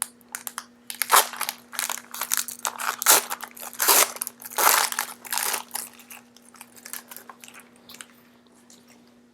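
A foil trading-card pack being torn open and handled, the wrapper crinkling and crackling in a run of sharp rustles that fade out after about eight seconds.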